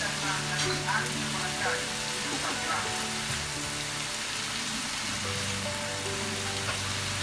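Food sizzling as it stir-fries in a pan, a steady hiss, with soft background music playing over it.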